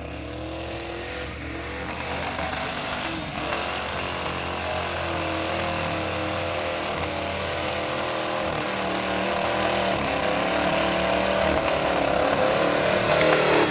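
Off-road truck engine running and revving, its pitch rising and falling, and growing gradually louder.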